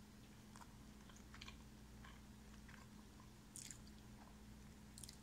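A person chewing a mouthful of breaded chicken strip with the mouth closed: faint, irregular small clicks and soft crunches, one a little louder about three and a half seconds in, over a low steady hum.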